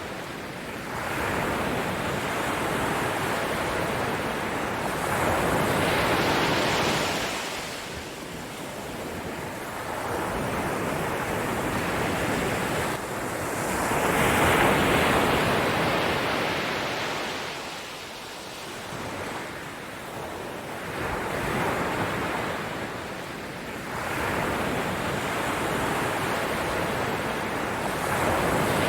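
Ocean waves washing in, a rushing noise that swells and ebbs every few seconds.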